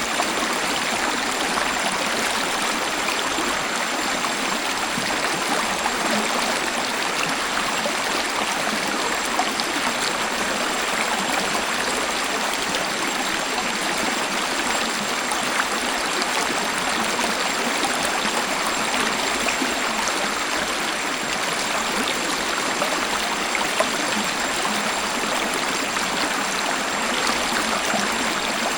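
Waterfall: water falling and splashing in a steady, even rush with little deep rumble.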